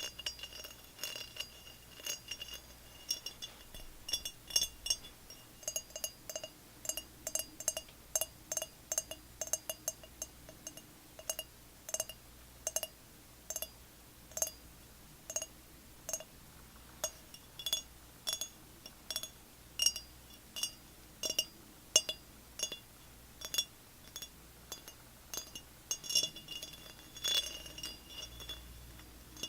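Repeated light tapping on a glass object, a few uneven taps a second, each tap clinking and ringing briefly at the same few pitches.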